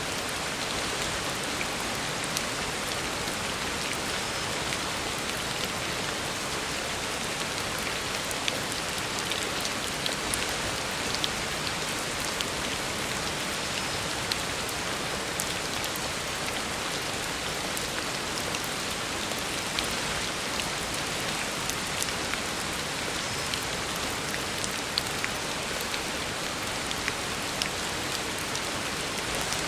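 Heavy rain falling steadily on a road surface, a dense even hiss with scattered sharper drop splashes.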